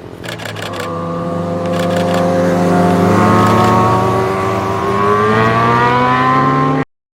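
A motorcycle engine accelerates, rising in pitch and growing louder over several seconds, with quick runs of clicks in the first two seconds. It cuts off suddenly near the end.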